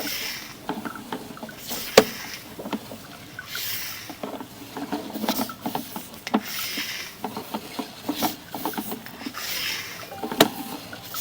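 Sewer inspection camera's push rod being worked through the pipe: irregular rubbing and scraping with scattered knocks and clicks, a sharp click about two seconds in and another near the end.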